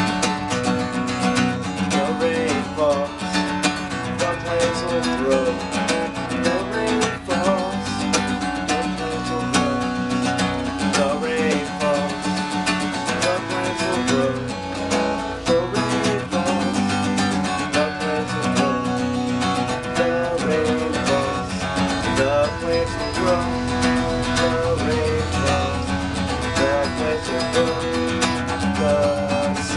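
Acoustic guitar strummed and picked, playing a steady instrumental passage.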